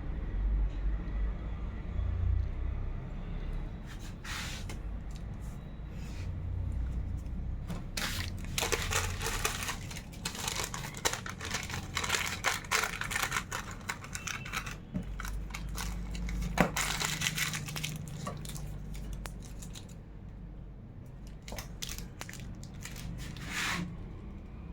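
Crinkly wrapping material being handled, in bursts of rustling and crackling over a low rumble.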